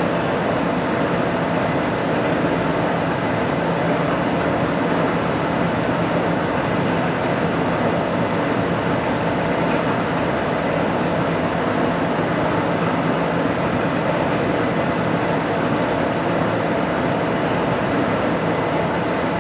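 Machinery running with a steady, even noise and a faint hum throughout.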